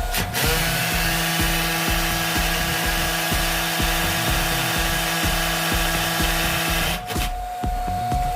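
A power tool runs at a steady speed with a constant hum and then stops about seven seconds in, over background music with a steady beat.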